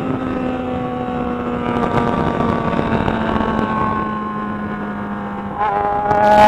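Yamaha XJ6 motorcycle's inline-four engine running under way, its note slowly falling as it eases off. Near the end the pitch steps down suddenly and the engine pulls harder and louder, with a rising note.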